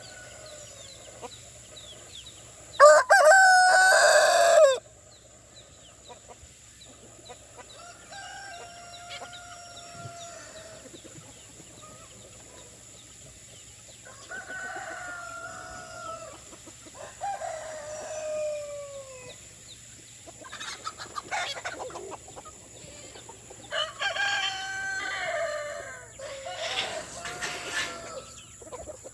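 Roosters crowing: one loud crow of about two seconds close by near the start, then several fainter crows through the rest, some ending in a falling glide.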